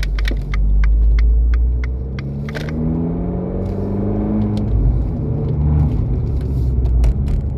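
Abarth 595C Turismo's 1.4 turbocharged four-cylinder through a Record Monza exhaust, heard with the roof open, pulling hard under acceleration. The engine note climbs for a couple of seconds, breaks at a gear change, then climbs again. Scattered sharp clicks run through the first few seconds.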